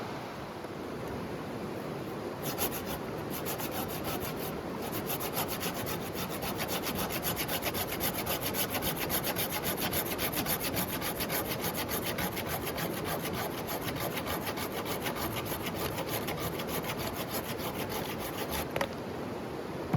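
Rapid, even back-and-forth scraping on wood, about five strokes a second, starting about two seconds in and stopping abruptly near the end.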